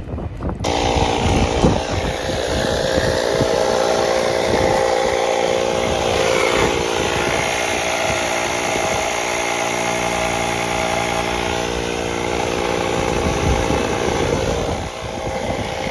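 Air compressor running steadily while inflating a car tire, switched on about half a second in and off shortly before the end.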